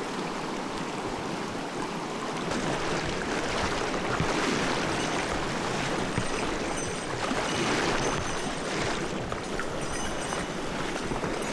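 Mountain stream water flowing, a steady rushing noise that swells louder twice for a couple of seconds.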